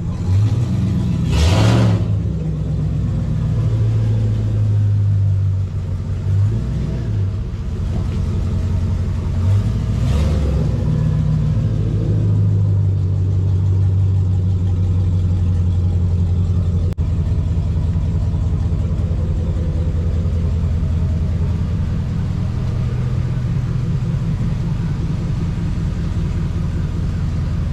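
Truck engine running with a steady low drone. Two short whooshes come about one and a half seconds and ten seconds in.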